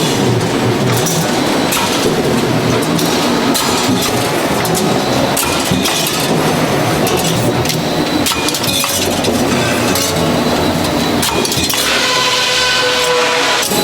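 Dense clinking and clattering of hard objects, with a few short ringing tones near the end.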